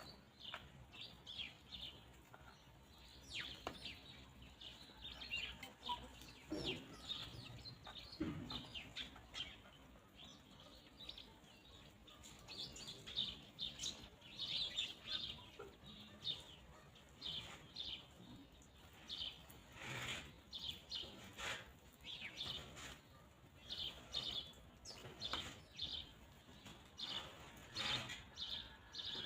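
Small birds chirping: many short, high, downward-sliding chirps, several a second, with a few lower calls in between.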